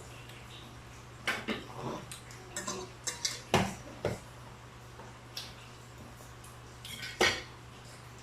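Dishes and cutlery clattering at a dinner table: scattered knocks and clinks, a cluster in the first half and another near the end, over a steady low hum.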